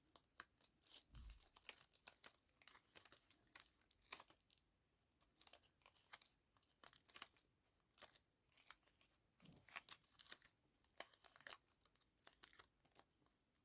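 Faint crinkling and crackling of paper handled at close range, a steady stream of small irregular ticks and rustles as a sticker is worked off a fragile old book page.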